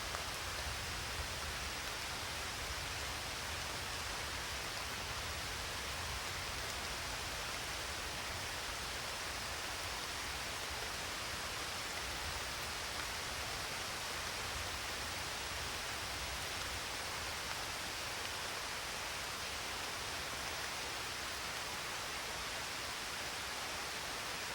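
Steady rainfall: an even, unbroken hiss with no distinct drops or claps standing out.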